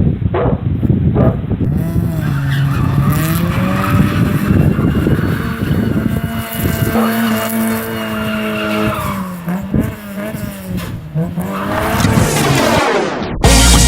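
Subaru Vivio's engine revving hard with its tyres squealing as it is driven in donuts, the engine pitch rising and falling over and over. Near the end the sound drops away in a quick downward sweep.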